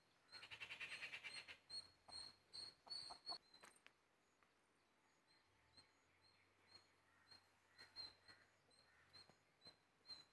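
A bird's faint, high single chirp repeated evenly about twice a second, with a brief quick trill about a second in. A few faint clicks run underneath.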